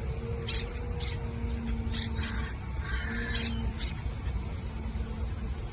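Parrots calling, a string of short high-pitched calls over a steady low rumble.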